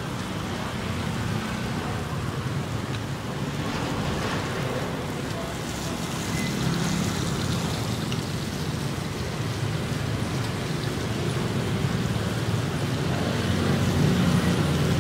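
Bánh xèo crepes frying in hot oil in woks over a wood fire: a steady sizzle, with street traffic underneath.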